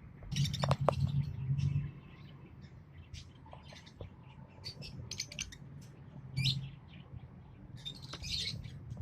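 A pair of green Fischer's lovebirds chirping in quick runs of short, sharp, high calls. A louder flurry with a low rumble comes about half a second in, and shorter ones come later.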